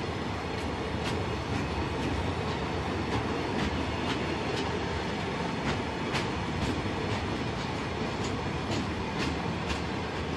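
Freight train wagons rolling slowly past, a steady rumble with sharp clicks from the wheels on the rails about twice a second.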